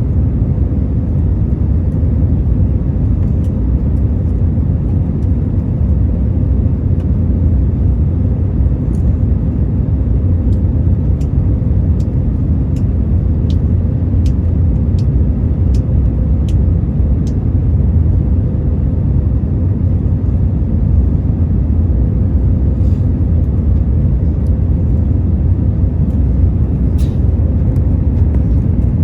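Steady deep rumble of engine and airflow noise inside an Airbus A321 cabin in flight, with a faint steady hum over it. A run of faint ticks about a second apart sounds through the middle.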